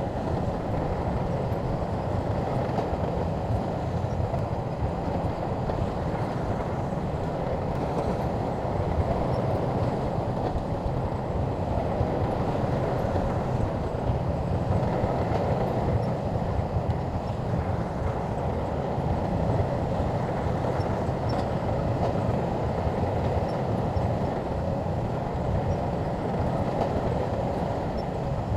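Bulldozer's diesel engine running steadily, a continuous low machine noise with no breaks.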